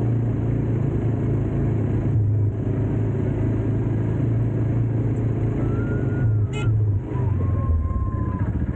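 Motor vehicle engine running steadily, with a brief high whistle-like tone about six to eight seconds in.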